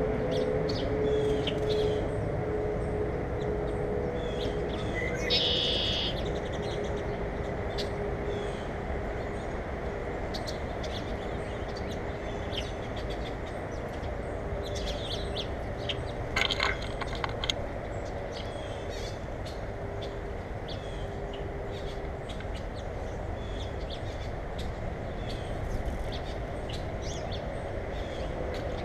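Birds chirping in short, scattered calls, the clearest about five and sixteen seconds in. Under them runs a steady low rumble with a faint hum that fades away over the first two-thirds.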